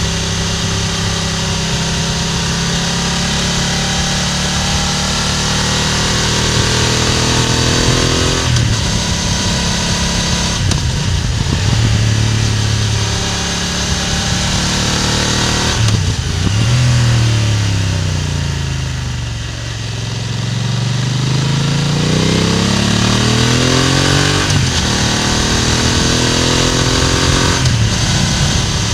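BMW F900R parallel-twin motorcycle engine and exhaust heard close up from above the exhaust while riding: it revs up through several quick gear changes, then falls away as the bike slows, and pulls up again through more gear changes near the end.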